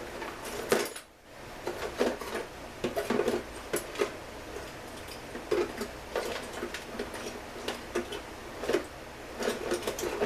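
Irregular clinks, taps and knocks of small metal parts and hand tools being handled during chainsaw repair work, with a brief pause about a second in.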